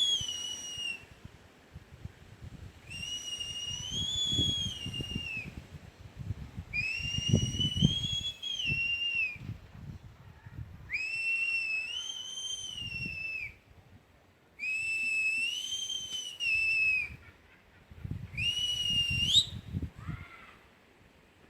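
A person whistling a series of six long notes, a few seconds apart. Each note rises a little, holds, then falls, and the last one sweeps sharply upward. Low rustling and knocking run underneath.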